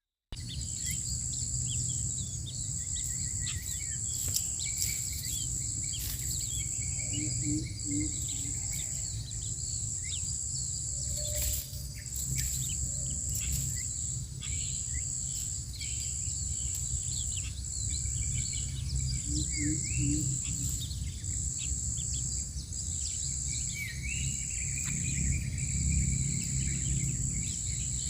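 A high-pitched insect trill runs on in long pulses of about a second, with short gaps between them, over scattered short bird chirps and a low background rumble.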